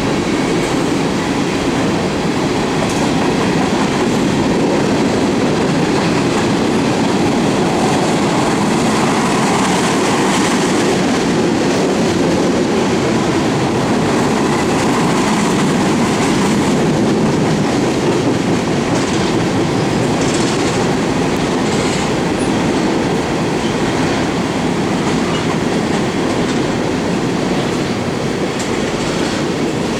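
Empty coal train's cars rolling past steadily, steel wheels clicking over the rail joints.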